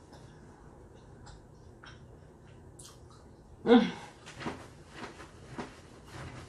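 Close-up mouth sounds of someone eating Hot Cheeto-crusted fried king crab: soft wet clicks at first, then one loud burst about halfway through. Crunchy chewing follows at roughly two chews a second.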